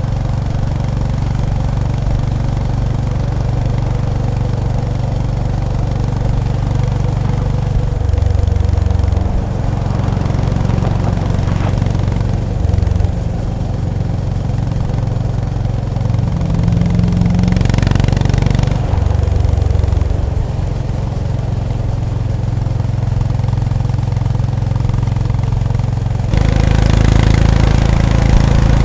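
Honda GB350S (CB350RS) air-cooled single-cylinder engine and exhaust running at low riding speed. The note steps up and down several times as the throttle is opened and closed, and it is loudest near the end.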